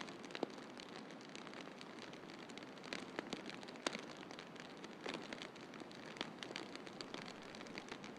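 Wood fire crackling in a fireplace: irregular sharp pops and snaps, one loud pop about half a second in and another just under four seconds in, over a steady hiss of snowstorm wind.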